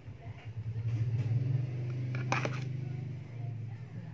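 A cat purring close up, a low rumble with a fast even flutter that swells between about one and three seconds in. A few sharp clicks come about two and a half seconds in.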